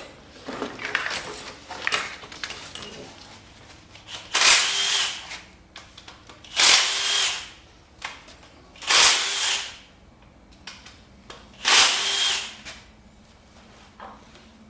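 A handheld power tool running in four separate bursts of about a second each, spinning out the four bolts that hold the oil pump on an LS engine. Light metal clicks come before the first burst.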